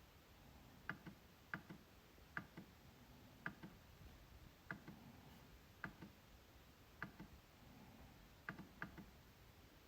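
MacBook trackpad clicking, single sharp clicks about a second apart at an uneven pace, with three quick clicks in a row near the end.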